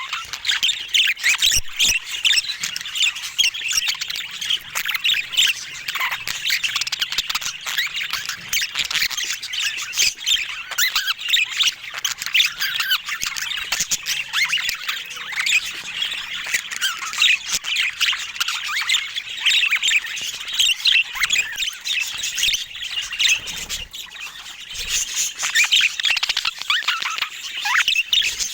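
Budgerigars chattering and warbling in a continuous stream of rapid squawks and chirps, with scattered sharp clicks.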